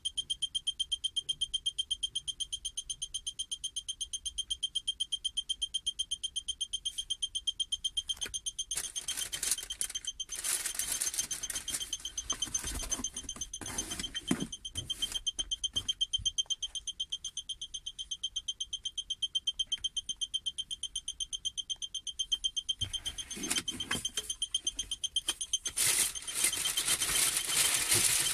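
Electronic warning beeper sounding a rapid, steady run of high-pitched beeps, several a second without pause. Bursts of handling and rustling noise run under it from about nine to sixteen seconds in and again near the end.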